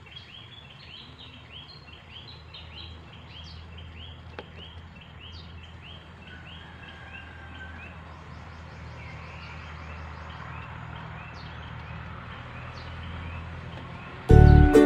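Outdoor ambience of a bird calling in a fast run of short, high, repeated chirps, about three a second, fading after the first half, over a low steady hum. Loud music with plucked strings cuts in just before the end.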